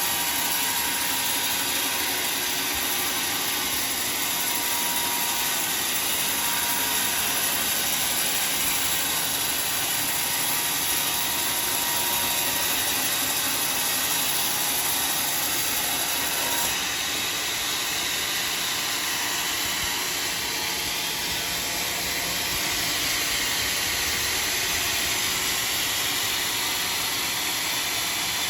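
Sawmill saw cutting through a large log: a steady, high-pitched hiss of blade through wood, whose sound changes abruptly about seventeen seconds in.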